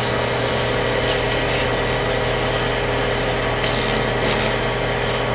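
Wood lathe running steadily with a constant motor hum, while 240-grit sandpaper rubs against the spinning padauk pen blank.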